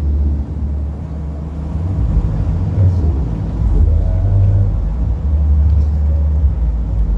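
Deep bass notes from a large outdoor 'sound horeg' sound system, heard mostly as a loud rumble, stepping to a new note every second or two.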